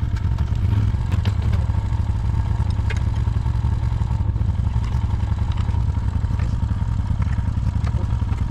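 An engine running steadily, with a faint steady whine and scattered light clicks and knocks over it.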